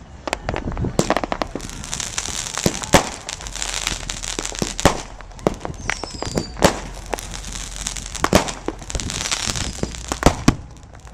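Consumer fireworks going off: irregular sharp bangs and pops over a steady crackling hiss, with a brief falling whistle about six seconds in.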